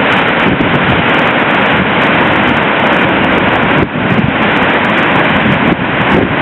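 Dettifoss waterfall's falling water making a loud, steady rushing noise, with wind buffeting the microphone.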